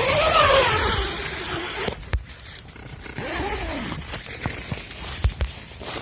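Two drawn-out animal cries that rise and then fall in pitch, one at the start and one about three seconds in; the first comes over a burst of rustling.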